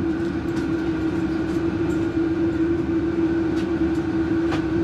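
A steady mechanical hum with a constant pitch, with a few faint light clicks over it.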